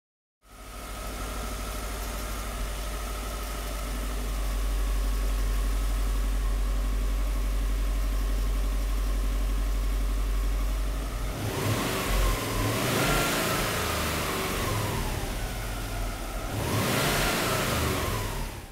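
Freshly rebuilt Subaru boxer engine in a 1998 Legacy GT-B idling steadily, then revved twice near the end, the pitch rising and falling each time.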